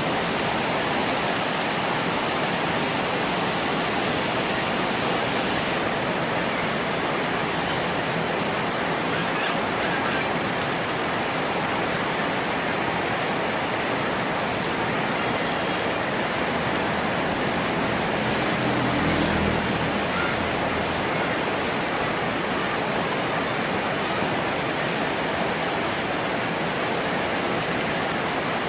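Heavy rain falling steadily. About two-thirds of the way through, a low rumble swells briefly and fades.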